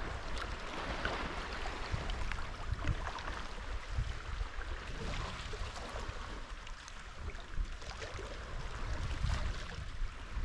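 Sea kayak under way: paddle splashes and sea water lapping against the hull, with a low wind rumble on the microphone.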